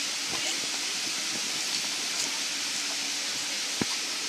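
Water running and spraying on an inflatable water slide, a steady hiss, with one short thump near the end.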